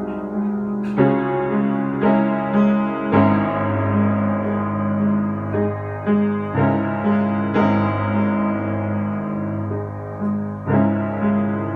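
Piano music: slow, sustained chords, with a new chord struck about every second.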